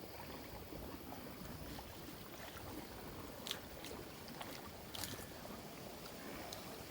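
Faint water sloshing with a few small sharp splashes or clicks, the clearest about halfway through and again a little later.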